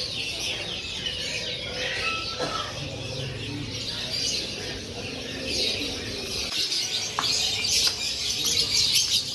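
Many small caged songbirds chirping and twittering at once, a dense overlapping chorus of short high calls that grows busier and louder about halfway through.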